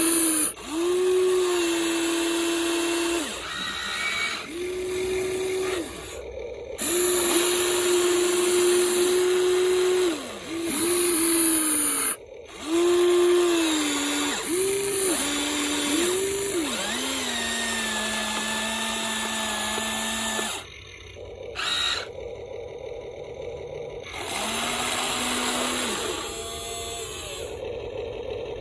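Electric motors of a Huina 1593 RC excavator whining in repeated short runs, each rising in pitch as it spins up and falling as it stops, as the boom, arm, bucket and tracks are worked one after another.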